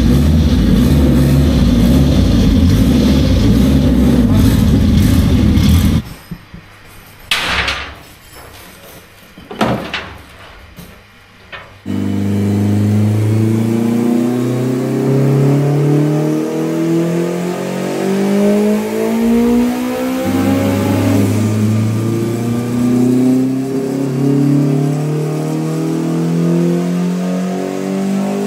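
Turbocharged Nissan Sunny drag car's engine running on a chassis dyno while being warmed up. It is loud and steady at first, then drops low for a few seconds with a few short blips. From about twelve seconds in it revs up repeatedly, its pitch climbing and falling back several times as the drive wheel spins the dyno roller.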